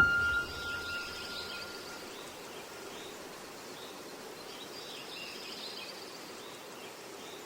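Quiet outdoor ambience: a steady hiss of background noise with faint bird chirps. A thin high tone fades away during the first two seconds.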